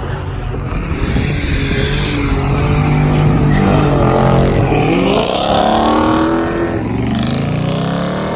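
Car engines revving hard, their pitch repeatedly climbing and dropping as they are driven hard, with rising squeals about halfway through and again near the end.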